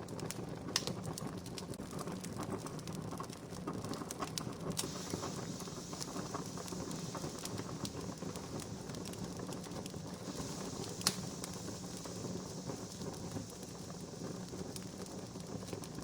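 Wood fire crackling: a steady hiss with irregular small pops and snaps, and two sharper pops, one about a second in and one about eleven seconds in.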